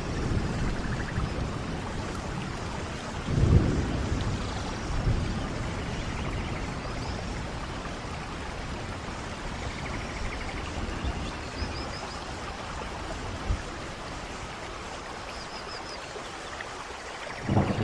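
Steady rain falling in a rainforest, with low rumbles of thunder swelling about three seconds in and again near the end. A few faint high chirps sound over the rain.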